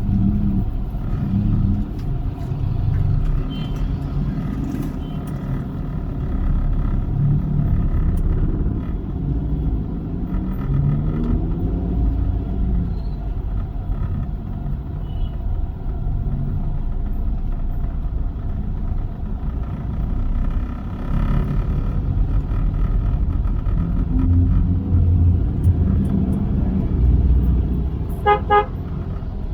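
A moving car's engine and road noise rumble steadily, with the pitch sliding up and down a little around the middle. Near the end a car horn gives a quick run of short toots.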